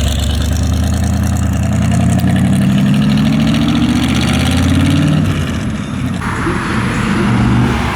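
Jeep rat rod's 350 small-block V8 with a mild cam pulling away under throttle, its pitch rising for a few seconds, dropping about five seconds in as it shifts, then climbing again.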